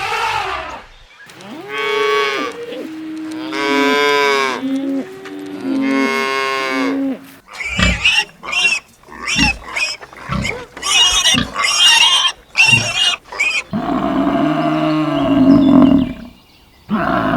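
Cattle mooing: three drawn-out calls, a pause filled by a quick run of short, sharp, higher-pitched calls, then one long, lower moo near the end.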